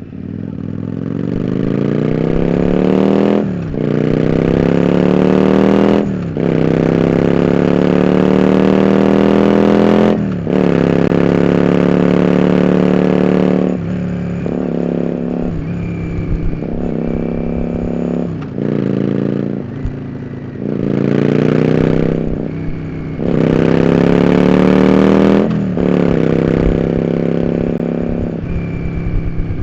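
Yamaha Drag Star 400 Classic's V-twin engine through open-ended dual Supertrap mufflers, pulling through the gears: the revs climb and drop sharply at each shift, four times in the first half. Then the throttle is eased and opened in shorter goes, with two more strong pulls near the end.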